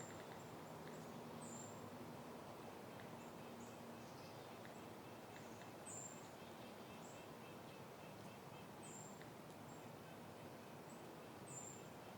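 Faint, steady soft wind through flowering plants, with a small bird giving short, high chirps every couple of seconds.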